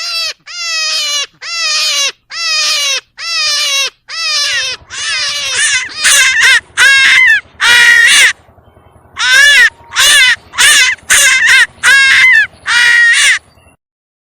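An animal giving a long run of loud, harsh calls, about two a second, each falling in pitch, with a short pause past the middle. The calls stop shortly before the end.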